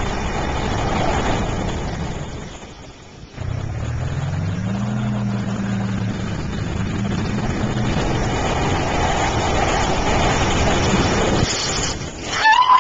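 Tractor engine working under load. It drops off briefly about three seconds in, then revs up and holds steady, and stops near the end.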